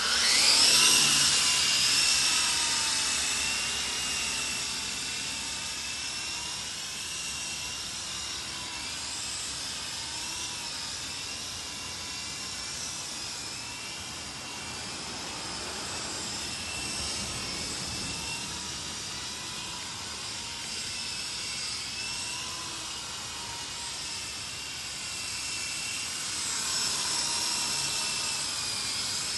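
SYMA Chinook twin-rotor RC toy helicopter spinning up, then its small electric motors and rotors whining steadily in flight. The whine wavers up and down in pitch as the throttle is worked to hold the non-gyro model steady.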